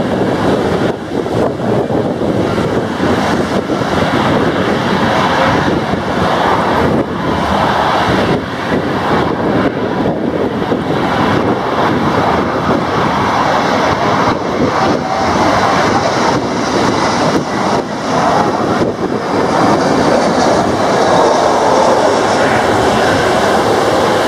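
Heavy rain pouring down, with wind buffeting the microphone. Under it, the engines of a landing Airbus A320-232 on short final grow louder near the end, with a faint high whine.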